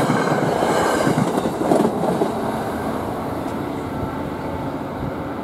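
NJ Transit commuter train's trailing Comet V cab car passing at speed over a grade crossing, its wheels clattering over the rail joints. The sound eases off as the train pulls away.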